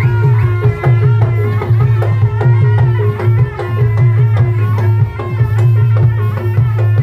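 Live Javanese folk music accompanying a dawangan performance: drums struck in a quick, steady rhythm over a strong low hum, with several held ringing pitches above.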